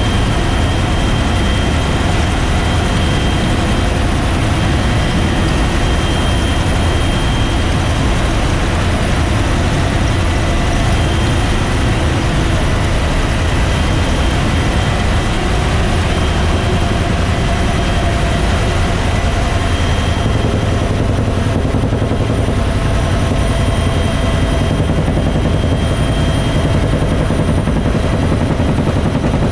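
Bell UH-1 Huey helicopter running steadily, its T53 turboshaft and rotor giving a loud deep rumble with a thin, steady high whine over it.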